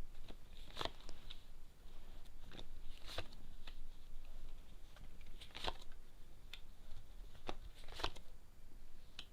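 Tarot cards being drawn from the deck and laid out: scattered soft taps and brief rustles of card on card, a few seconds apart.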